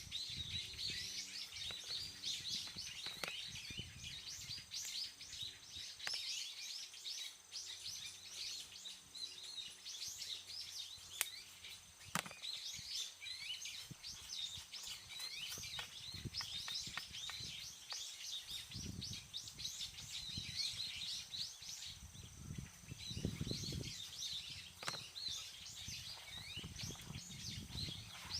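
Birds chirping continuously, with a few sharp clicks scattered through and some low rumbling in the second half.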